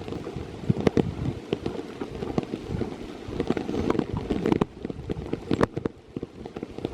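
Rain falling, with irregular sharp drop ticks close to the microphone over a steady patter.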